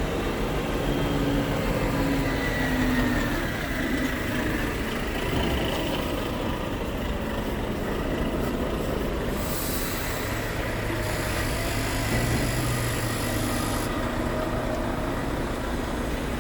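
Scania P truck running, a steady low engine drone with faint tones that drift slowly up and down in pitch, and a brief hiss in the middle.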